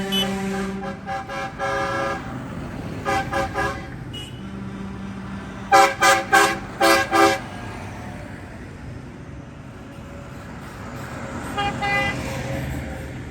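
Tractor horns tooting in short repeated blasts as the tractors pass. The loudest is a run of five quick toots about six seconds in, and there are fainter groups before and near the end, over the steady low running of the tractor engines.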